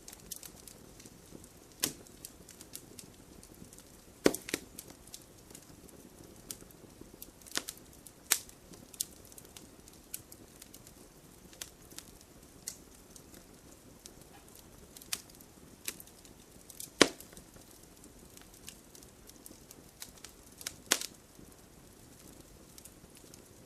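Wood campfire burning with a low steady hiss and irregular sharp crackles and pops, a few loud snaps standing out among smaller ticks.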